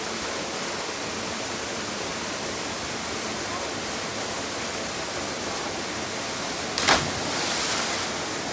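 Waterfall rushing steadily. About seven seconds in, a sharp slap followed by a second of splashing hiss: a body hitting the pool from a cliff jump.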